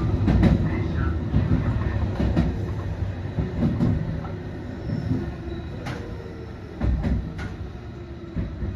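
Train running on the line, a steady low rumble with intermittent clicks of the wheels over rail joints, slowly getting quieter.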